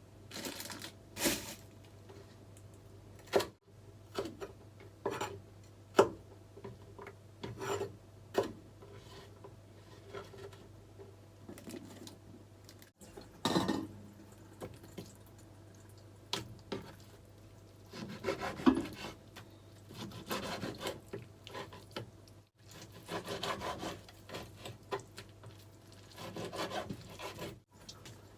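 Kitchen food preparation on a wooden surface: scattered sharp knocks and longer stretches of rubbing and scraping.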